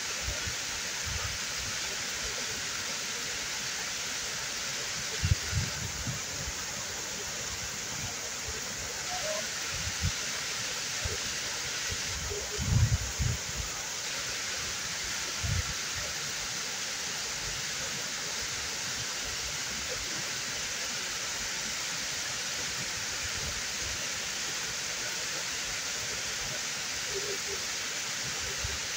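Waterfall: a steady rush of falling water, with a few short low bumps partway through.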